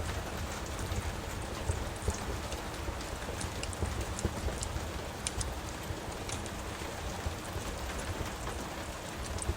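Steady rain hissing and pattering, mixed with a wood fire crackling: scattered sharp pops and ticks over an even rush with a low rumble beneath.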